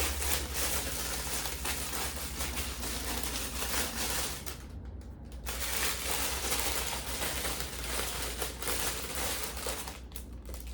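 Plastic bag of buns being handled and opened, crinkling loudly in a run of crackles, with a brief pause about halfway and another near the end.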